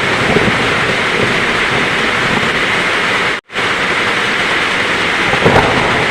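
Heavy rain falling steadily, a dense even hiss. It cuts out abruptly for a split second about halfway through and swells briefly louder near the end.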